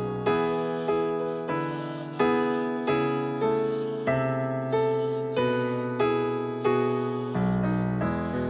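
Piano music: a slow piece of chords struck at an even pace, each one ringing and fading before the next.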